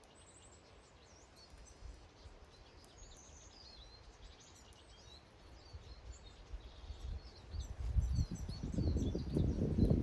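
Small garden birds chirping and twittering with high calls throughout. From about seven seconds in, a low rumbling, crackling noise builds up and becomes the loudest sound by the end.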